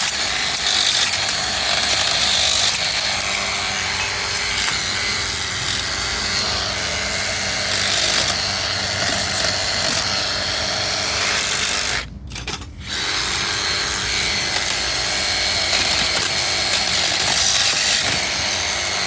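Power tool running steadily as it cuts apart an air conditioner, stopping briefly about twelve seconds in and then starting again.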